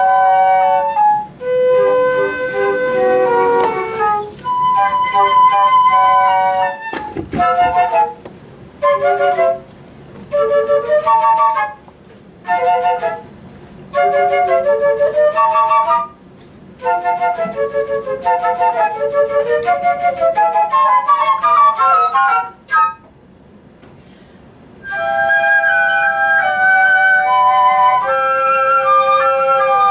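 Flute playing a melody in phrases separated by short pauses, with a quick rising run of notes past the middle, then a brief silence before the playing resumes.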